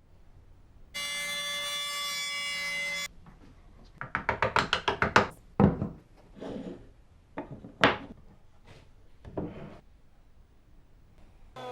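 A small power tool runs steadily for about two seconds and stops. Then comes a quick run of about eight sharp knocks on wood and several separate, louder thunks.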